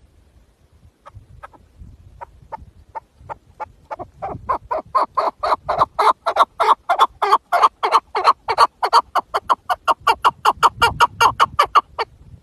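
Chukar partridge calling: a long series of clucking notes that starts faint at about one a second, speeds up and grows louder to some four a second, then stops near the end.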